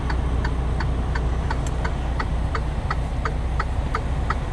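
A steady mechanical ticking, about three ticks a second, over a low steady rumble.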